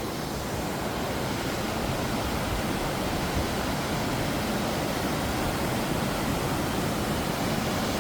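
Steady rush of the Aira Force waterfall, water pouring and splashing in an unbroken roar of noise.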